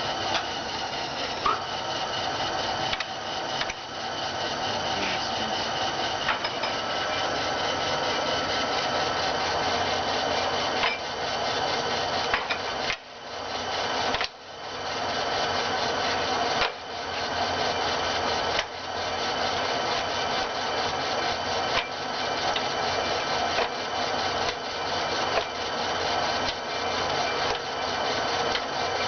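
1981 JET 24" x 120" gap-bed engine lathe running under power, its 10 HP spindle drive and headstock gearing giving a steady mechanical whine. The sound drops out briefly a few times near the middle, then resumes at the same level.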